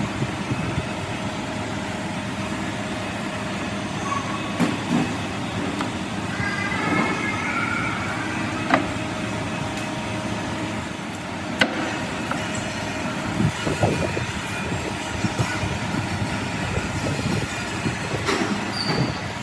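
Steady heavy machinery noise with scattered metal clanks and knocks, and a short squeal about seven seconds in.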